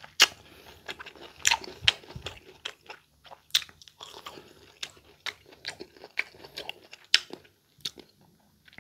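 Raw green mango being chewed with the mouth open: a run of sharp, irregular crunches, loudest in the first two seconds and again about three and a half and seven seconds in.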